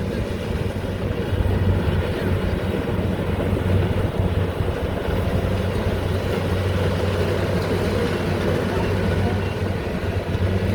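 An engine running at a steady speed, a low even drone with no change in pitch.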